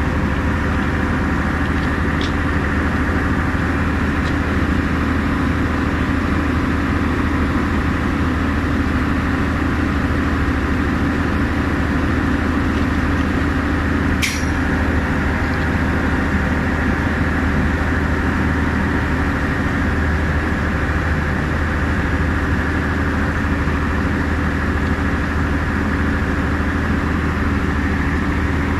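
Engine-driven rail welding machine running with a steady, unchanging drone, with one short sharp click about halfway through.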